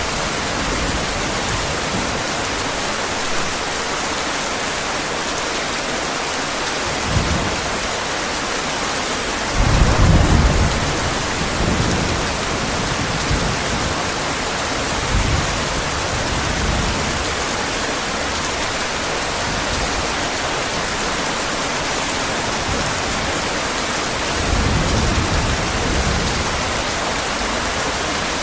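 Heavy rain falling steadily, with low rumbles of thunder several times, the loudest about ten seconds in.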